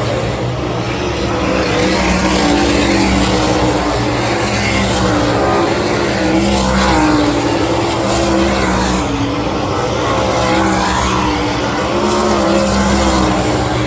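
A 410 sprint car's V8 engine running hard on a dirt oval, its pitch rising and falling every few seconds as the driver comes on and off the throttle.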